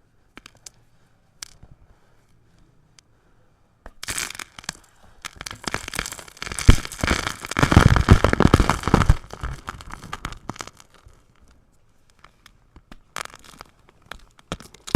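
A rectangular block of powdery gym chalk being crushed, crunching and crumbling. After a few faint clicks, a dense run of crackling crunches starts about four seconds in and lasts several seconds, and a few more crunches come near the end.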